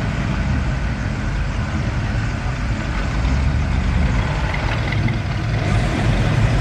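Engines of 1950s classic cars, a Buick then a Ford convertible, running at idle as they roll slowly past: a steady low rumble that grows a little louder near the end as the second car draws near.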